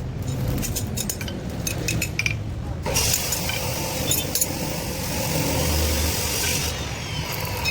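Electric arc welding crackle and sizzle that starts about three seconds in and breaks off near the end, with scattered clicks over a steady low hum.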